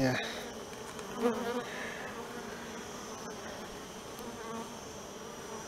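Honey bees buzzing around an open hive: a steady hum.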